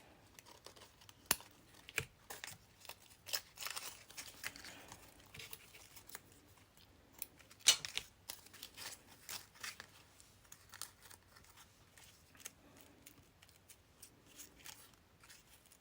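Scissors snipping through paper in short, irregular cuts, with paper rustling as it is handled; the sharpest snip comes about eight seconds in.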